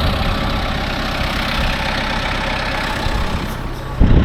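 Kubota loader tractor's diesel engine running steadily, with a short low thump about four seconds in.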